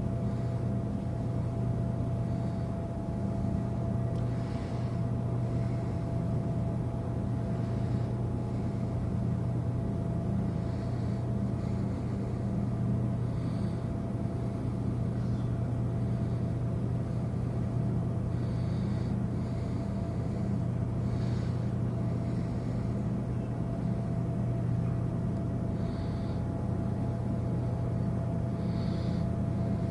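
Steady low rumble of a cruise ship's machinery during docking, with a steady hum above it and faint short high chirps now and then.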